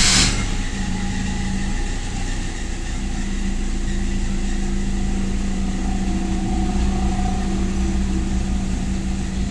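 Toyota Revo pickup engine idling steadily after a brief louder surge at the very start. The truck has a hard-starting complaint.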